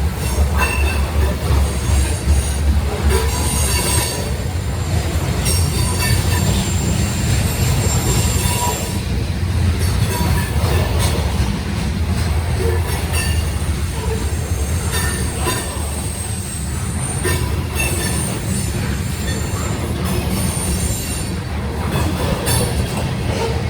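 Freight train of grain hopper cars rolling past with a steady heavy rumble. Short, scattered metallic wheel squeals come and go over it.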